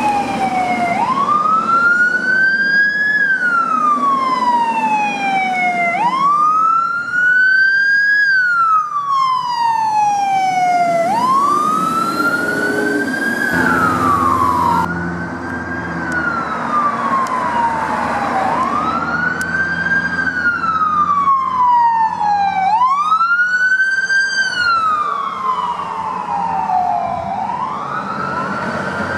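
Emergency vehicle siren in slow wail mode, each cycle rising quickly and falling away over a few seconds, repeating about six times, with truck engine and road noise underneath.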